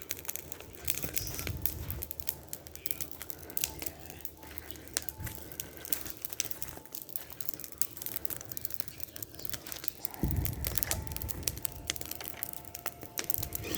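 Tamiya TXT-2 RC monster truck driving and spinning, its tires crunching and crackling over the ground in a dense run of small clicks, with a low rumble that swells about ten seconds in.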